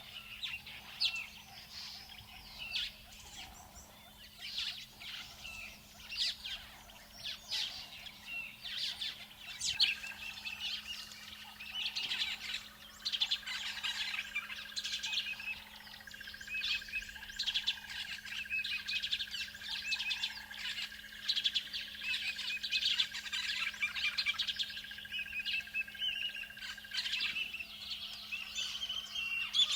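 Wild birds chirping and calling with many short, overlapping calls. About a third of the way in, a steady high trill starts under them and holds for most of the rest.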